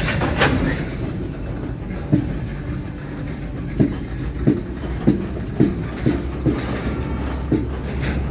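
Steel gondola cars of a freight train rolling slowly over the track, with a steady low rumble. Sharp wheel clacks over the rail joints come about one or two a second from about two seconds in.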